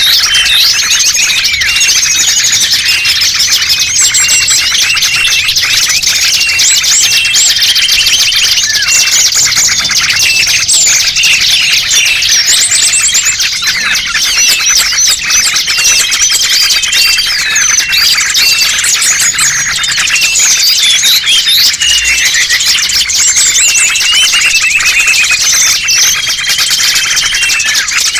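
Dense, loud chorus of many small songbirds chirping, twittering and trilling over one another without a break: a bird-lure recording of small-bird calls, played to draw small wild birds in.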